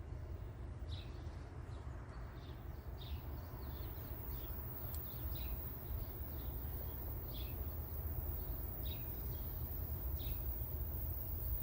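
A songbird chirping repeatedly, short dropping chirps about once a second, over a steady low rumble.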